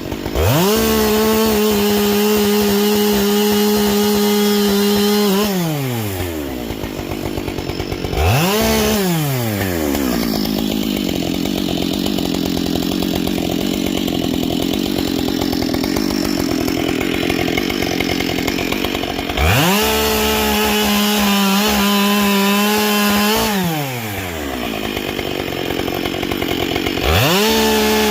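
Husqvarna 572 XP two-stroke chainsaw with a carbide chain, bucking firewood logs. The engine is held at high throttle for several seconds at a time and drops back to idle between runs. In a long stretch in the middle the steady engine note gives way to a rougher noise as the saw works in the wood.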